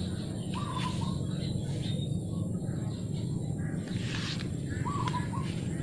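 A bird calls twice in short warbling notes, about half a second in and again near the end, over a steady low rumble of outdoor background noise.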